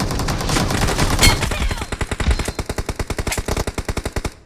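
Automatic gunfire in a shooter video game: a rapid, sustained burst of shots, about a dozen a second, that cuts off abruptly near the end.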